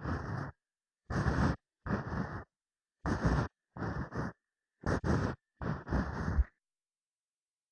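Ear pick (mimikaki) scraping and rubbing close to the microphone in a run of about seven short strokes, each roughly half a second long with brief silent gaps between.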